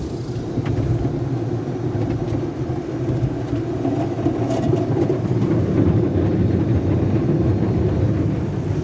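Automatic car wash tunnel equipment running, a steady low rumble with a few faint ticks.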